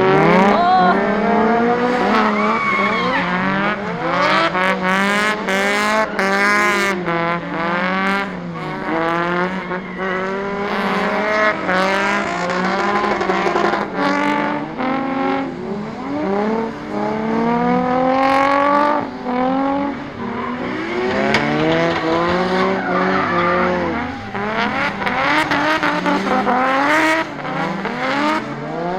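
Drift cars on a track, engines revving hard with pitch rising and falling constantly as several cars run at once, over the hiss and squeal of sliding tyres.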